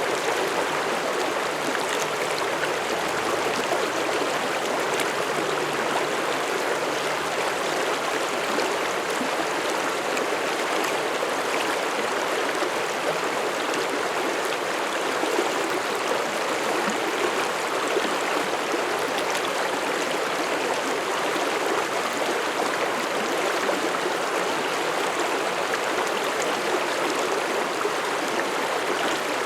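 Mountain stream running steadily through forest, a continuous rush of flowing water.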